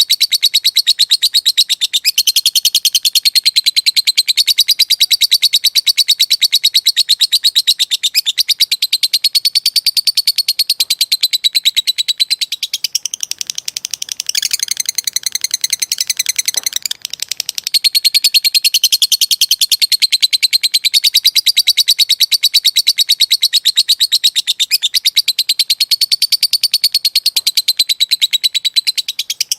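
Lovebird singing a long, unbroken ngekek chatter: a shrill run of very rapid repeated notes that goes on without a pause, softening briefly a little before the middle and then picking up again.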